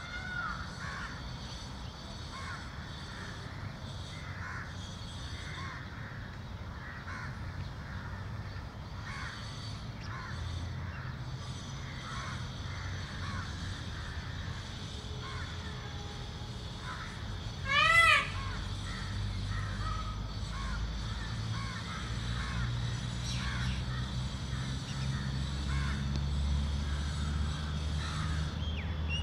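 Many faint, short bird calls and a steady high-pitched drone throughout, with one loud, clear bird call about eighteen seconds in that rises and falls in pitch. A low rumble grows in the second half.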